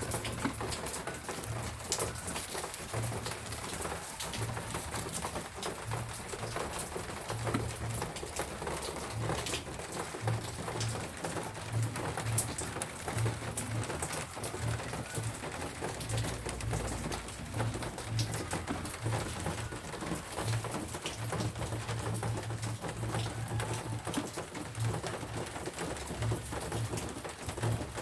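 Steady rain, with many small drops pattering on leaves and surfaces, and birds calling in the background.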